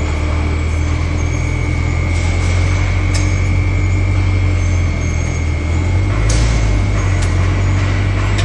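Loud industrial machinery drone with a steady low rumble and a thin high whine, broken by a few sharp knocks: two about two and three seconds in, and two more about six and seven seconds in.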